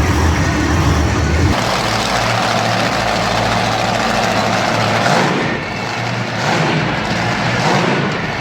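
Monster truck engine running loudly, its note shifting about a second and a half in, with a brief dip in loudness a little past halfway.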